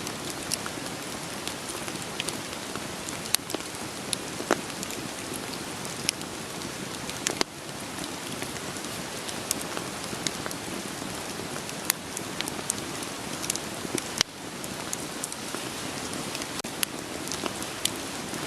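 Steady rain falling, with scattered sharp crackles and pops of burning firewood over it. The level dips briefly twice.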